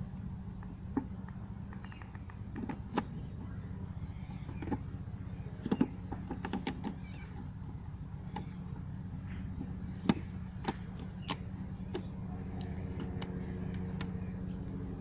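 A steady, low buzzing hum from a swarm of stingless native bees (Tetragonula hockingsi) stirred up by an opened hive, growing fuller about twelve seconds in. Scattered sharp clicks and crackles from the hive being handled sound over it.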